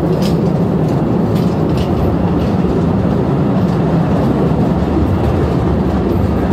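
Open-car cave tourist train running along its narrow-gauge track through a rock tunnel: a steady, loud rumble of wheels on rail heard from a passenger seat, with a few light clicks in the first two seconds.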